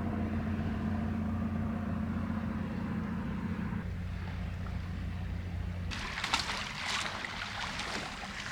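Engine of a Triumph Scrambler 1200 XE motorcycle running with a steady low hum. It stops about six seconds in, and rustling and handling noises follow.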